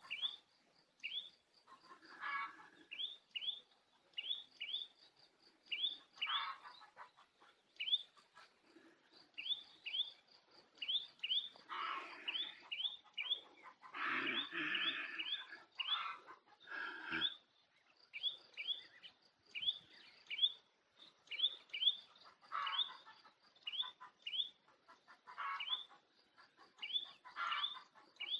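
Small birds chirping: short, sharp high chirps repeating all through, often in pairs, with denser bursts of chattering calls every few seconds.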